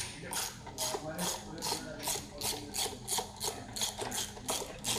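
Hand ratchet wrench clicking in quick, even back-and-forth strokes, about three a second, as a bolt is turned out during an engine teardown.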